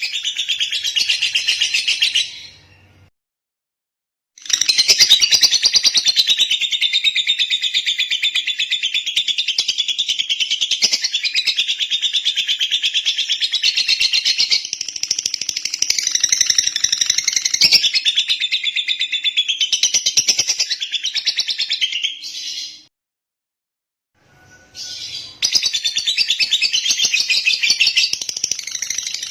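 Lovebird singing a long, rapid, high-pitched chattering trill that stops dead twice into silence, once a few seconds in and again about three-quarters of the way through.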